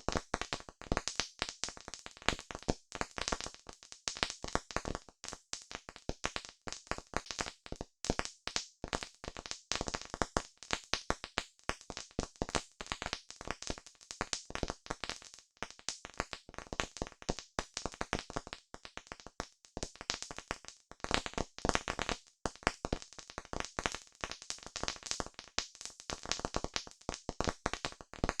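Wood campfire crackling: a dense, irregular run of sharp pops and snaps from the burning wood, with no let-up.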